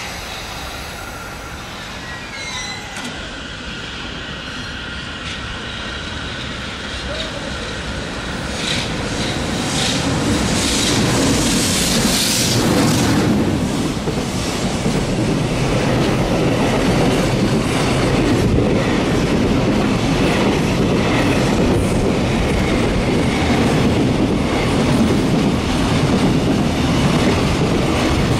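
A JR Freight EH500 electric locomotive hauls a container freight train through the station. The train grows steadily louder as it approaches. Then the long string of container wagons rolls past with a steady loud rolling noise and the clickety-clack of wheels over rail joints.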